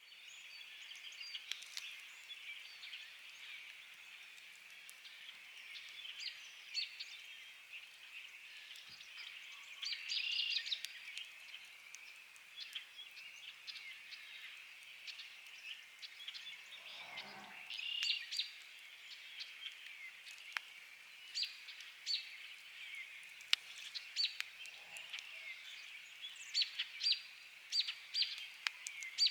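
Wood campfire crackling with scattered sharp pops, over a steady background of many birds chirping and calling.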